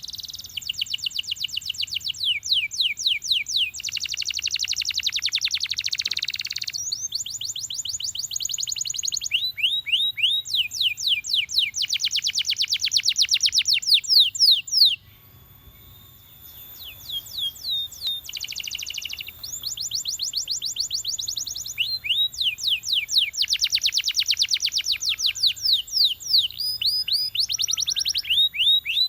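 Domestic canary singing a long song of rapid trills and rolls, each phrase a fast run of repeated downward sweeps. The song breaks off briefly about halfway through, then resumes.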